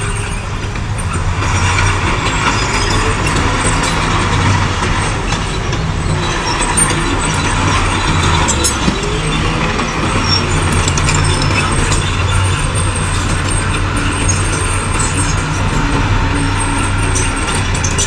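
Heavy diesel earthmoving machinery running steadily at a constant engine note, with a few faint clicks.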